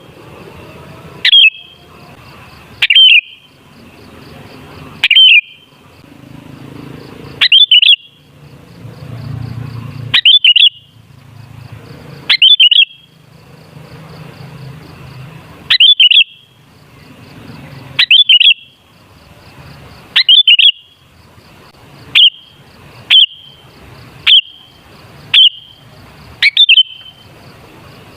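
Sooty-headed bulbul (kutilang) calling over and over: short, sharp, loud notes about every second or two, with a faint low rumble between them.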